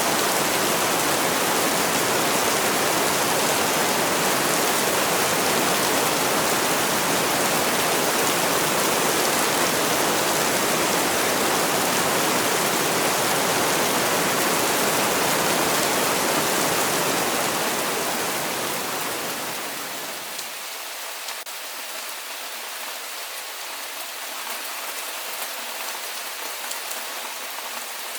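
Steady heavy rain, an even dense hiss. About two-thirds of the way through it fades to a quieter, thinner rain with a few separate drops ticking.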